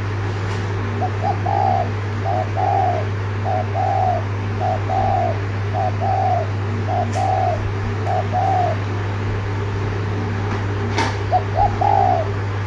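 Spotted dove cooing: a run of about seven identical short coo phrases, roughly one a second, then a pause and one more phrase near the end. A steady low hum runs underneath, with a single click shortly before the last phrase.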